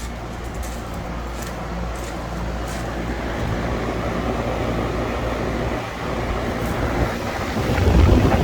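Lennox ACX13 3.5-ton central air-conditioner condensing unit running at its season start-up: a steady compressor hum under the condenser fan's rush of air. The unit gets louder, with a low rumble, near the end.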